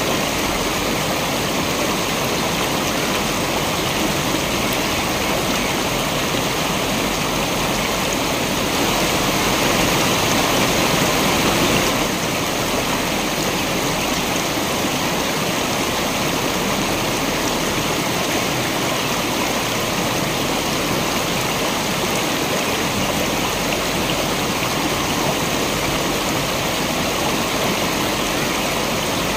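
Waterfall and rushing stream water, a steady dense rush with a slightly louder stretch a third of the way in.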